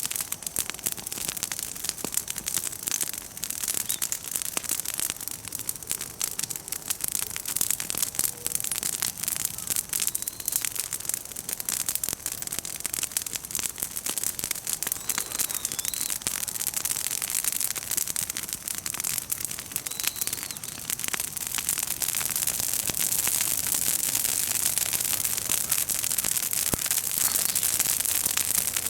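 Bonfire of freshly broken, green chestnut branches and leaves crackling: a dense, continuous run of small snaps and pops over a steady hiss.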